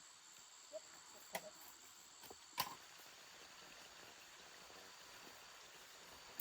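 Quiet outdoor background with a steady, faint, high insect drone, broken by a few short sharp knocks or clicks; the loudest comes about two and a half seconds in.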